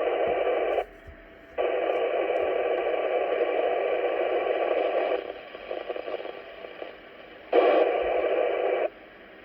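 Radio static hissing from a two-way radio's speaker in on-off stretches: a loud burst for about a second, a short gap, a longer stretch of hiss that fades out, then another loud burst near the end that cuts off suddenly.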